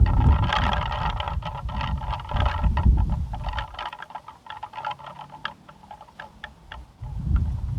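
Plastic pinwheel spinning in gusty wind, its blades making a rapid clicking clatter that thins out to sparser clicks as the gust dies in the middle. Wind buffets the microphone, fades about halfway through and comes back strongly near the end.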